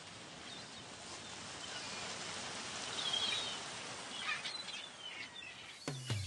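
A steady hiss of background noise slowly growing louder, with a few short bird chirps over it. Just before the end the song's music comes in with a low note and drum hits.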